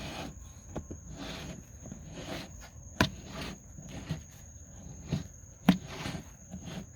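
Crickets chirring steadily at night, under repeated short rustling crunches and several sharp clicks as a raccoon eats from a food bowl.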